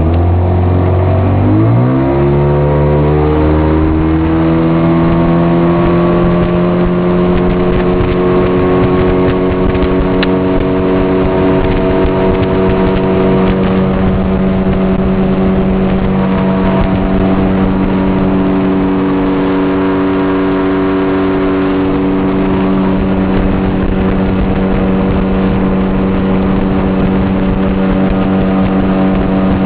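Motorboat engine opening up from low speed. Its pitch rises over the first four or five seconds, then it runs steadily at cruising speed.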